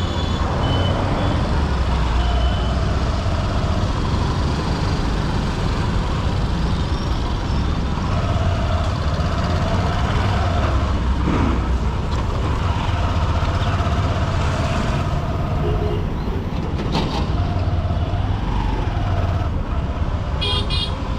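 Honda SP125's single-cylinder engine running under way through dense city traffic, with the noise of surrounding vehicles. Horns of other vehicles sound several times, each for a second or two, with a shorter high beeping near the end.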